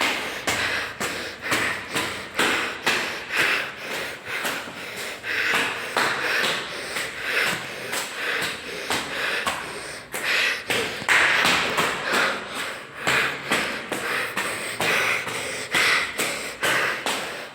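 Footsteps climbing stairs at a quick, even pace of about two to three steps a second, with heavy, hard breathing from the exertion.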